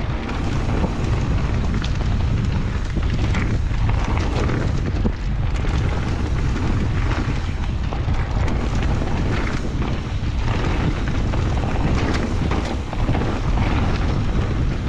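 Wind buffeting the microphone of a handlebar-mounted phone on a mountain bike riding a rocky trail, a loud steady rumble, with tyre noise and frequent short jolts and rattles from the rough ground.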